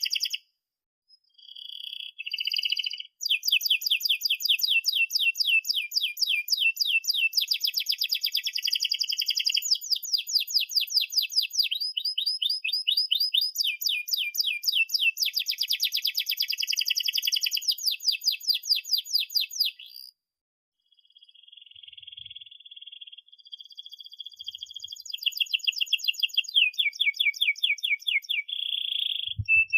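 Domestic canary singing long, fast rolling trills of rapidly repeated high notes, broken by short pauses about a second in and around twenty seconds in.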